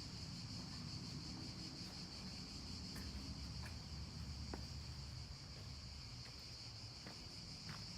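Steady chorus of insects, a high continuous buzz, over a low outdoor rumble with a few faint ticks.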